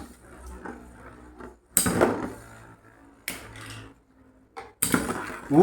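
Two Metal Fight Beyblade tops, one of them Flame Byxis 230WD, spinning against each other in a stadium with a faint whir, clashing sharply three times about a second and a half apart. A voice exclaims at the very end.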